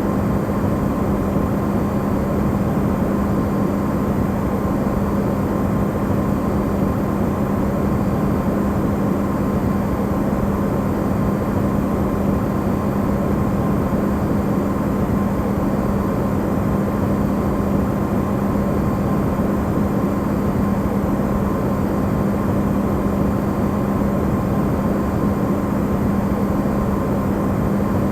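Amplified refrigerator running: a steady noise with a strong low hum and a fainter higher tone held throughout.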